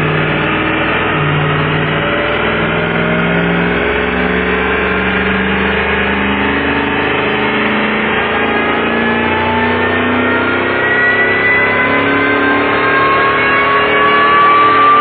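Ford SVT F-150 Lightning's V8 under load on a chassis dyno during a pull, its pitch climbing slowly and steadily and getting a little louder toward the end.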